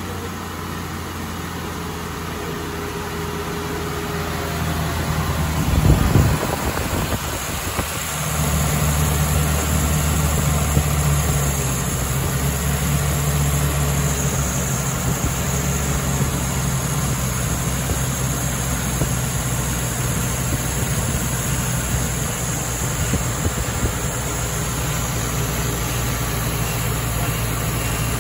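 Carbureted 1977 Toyota Crown inline-six running at a steady idle, just brought back to life after it had refused to start. A brief loud surge about six seconds in, then from about eight seconds a louder, steady idle note that holds without stalling.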